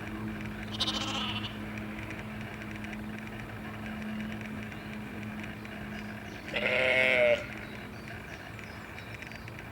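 Two bleats from a sheep or goat kind of animal: a short one about a second in and a louder, longer one near three-quarters of the way through, over a steady low hum.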